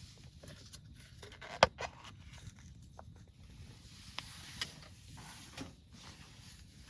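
Light handling noises of a plastic dessert cup and its packaging: soft rustles and small clicks, with one sharp click about one and a half seconds in.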